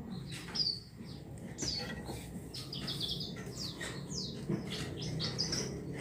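Javan bush lark (branjangan) singing a fast, varied run of short chirps and downward-slurred whistles.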